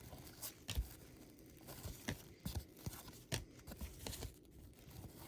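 Baseball trading cards being flipped through by hand: faint, irregular soft clicks and slides of card stock against card stock.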